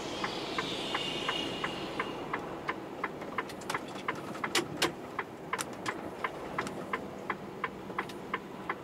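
Truck cab with the engine and road hum underneath and an indicator ticking steadily, close to three ticks a second. About two seconds in a faint hiss fades away and sharper, irregular clicks and rattles join the ticking.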